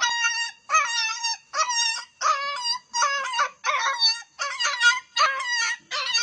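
A puppy crying in a run of high-pitched whining howls, each about half a second long, coming about three every two seconds.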